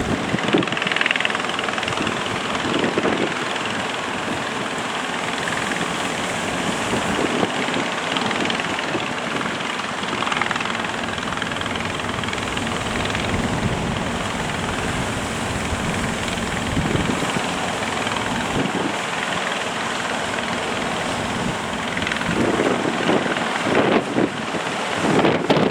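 Fishing boat engines running steadily under strong wind buffeting the microphone, the wind gusting louder near the end.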